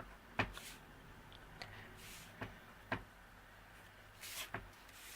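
Faint light knocks and taps at irregular intervals, about one every second, as a photopolymer rubber stamp is inked on an archival ink pad and pressed repeatedly onto cardstock on a stamping mat, with a few soft rustles of paper between them.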